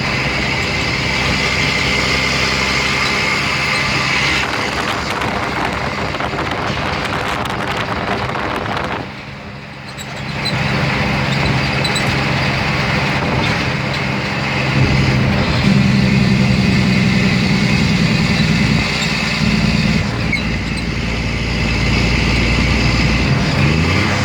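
Diesel engine of a 2004 Mack Granite dump truck running steadily while the truck is under way. Its sound drops briefly about nine seconds in, then builds again and grows heavier later on.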